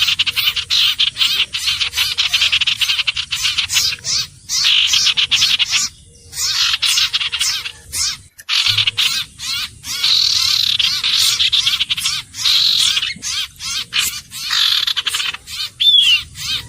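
Common iora calling: rapid, dry chattering trills in repeated bouts with short breaks between them, and one brief down-slurred whistle near the end.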